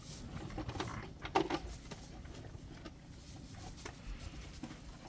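Newborn lamb moving about on straw bedding: light rustling and irregular soft hoof taps, with one brief louder knock or sound about a second and a half in.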